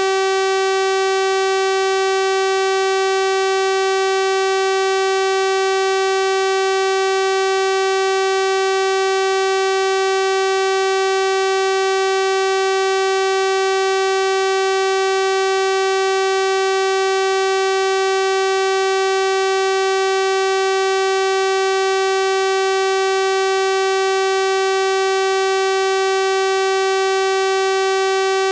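Synthesized 384 Hz sawtooth-wave tone, a steady buzzy drone with a full series of overtones, unchanging in pitch and level.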